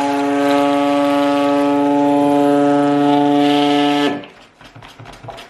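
Electric stick blender running steadily, a loud motor hum, blending lye water into the melted soap oils and butters. It is switched off about four seconds in.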